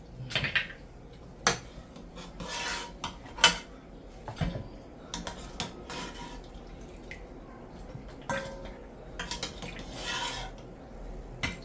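Metal pot and cooking utensils clattering: irregular knocks and scrapes of a spoon against the pot, a few of them sharp clanks that ring briefly.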